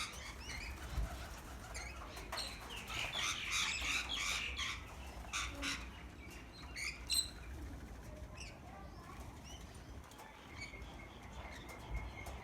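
Backyard birds chirping in short, scattered calls, busiest in the first half, over a low steady rumble.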